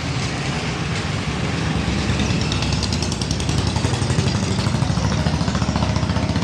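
An engine running steadily with a rapid, even chugging pulse.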